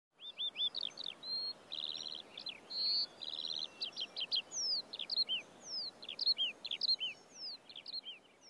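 Songbirds singing: quick chirps, two rapid trills and a run of falling whistles, over a faint steady hiss.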